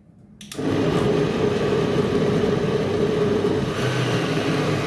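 Electric kitchen blender switched on about half a second in and running steadily at full speed, blending tomatoes.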